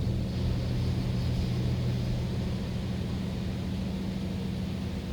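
D&S 5000 automatic car wash machinery running: a steady low hum with an even hiss over it.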